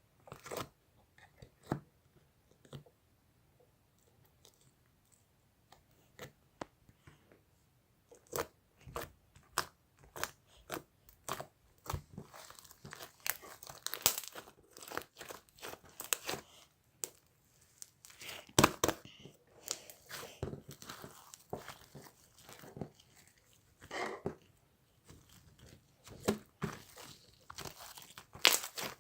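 Irregular crinkling, tearing and crunching handling noises made of many short, sharp crackles. They are sparse at first and come thick and fast from about eight seconds in.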